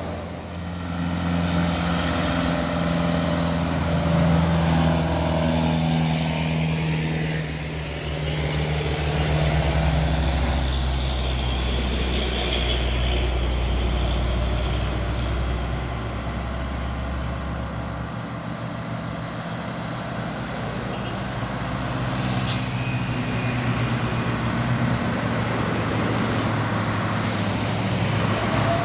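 Diesel engine of a Mitsubishi Fuso tronton truck running hard under heavy load, loud like a train, its engine note shifting a couple of times. A brief sharp hiss sounds about three quarters of the way through.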